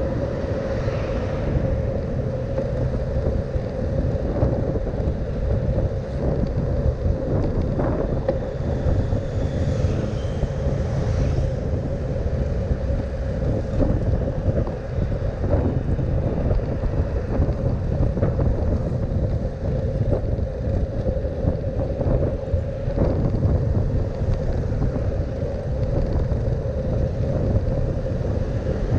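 Wind rushing over the microphone of a camera riding on a moving bicycle: a steady low rumble with a constant hum throughout.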